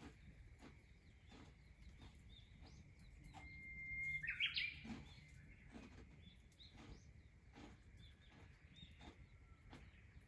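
A bird calling: one brief held whistle runs into a loud burst of chirps about four seconds in, with fainter short chirps before and after. Faint irregular clicks sound throughout.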